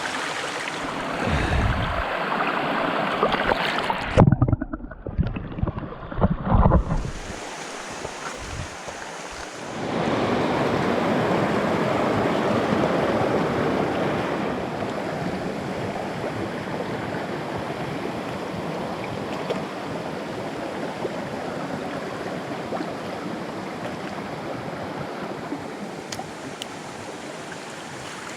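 Steady rush of flowing creek water. About four seconds in there are a few seconds of heavy, muffled low thumps and buffeting.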